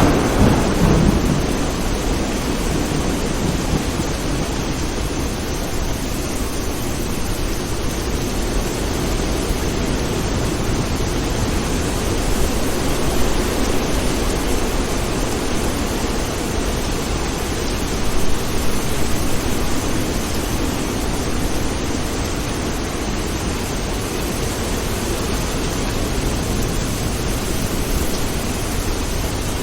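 Steady rain making a continuous hiss. A brief low rumble of thunder comes right at the start, with a smaller swell about two-thirds of the way through.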